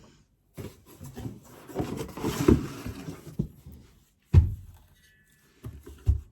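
Rustling and clattering of things being handled, with a sharp knock a little over four seconds in and another near the end.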